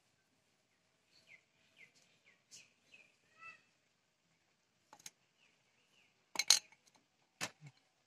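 A small bird chirping in short, quick, falling notes, about two a second, in the first half. Then a few sharp knocks and clicks as wooden sticks are handled and set into the ground, the loudest about six and a half seconds in.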